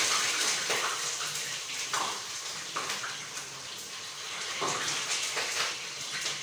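Food sizzling in hot oil in a pot on a gas stove, a steady hiss that fades slowly, broken a few times by the scrape of a ladle stirring it.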